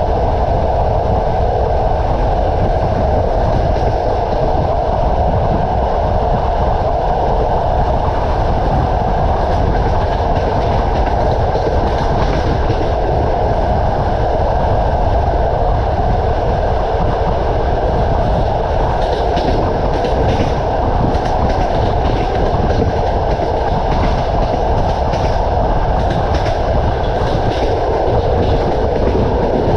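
Train running at speed: a steady rumble with the wheels clattering over the rail joints, and a run of sharper clicks in the second half.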